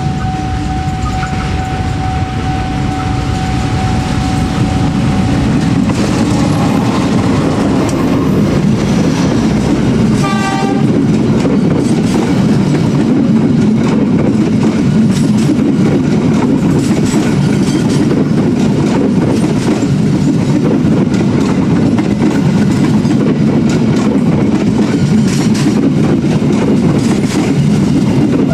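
A diesel locomotive hauling passenger coaches passes at close range, its engine running. It gives a short horn toot about ten seconds in. Then the wheels of the passing coaches keep up a steady, loud clatter over the rail joints.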